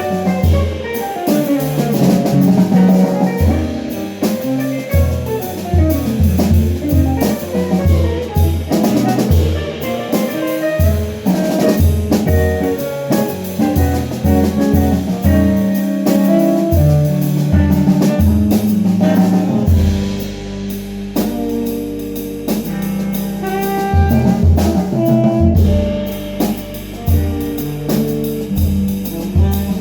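Jazz band playing an instrumental piece, with drum kit and a moving low line; a low note is held for several seconds about two-thirds of the way through.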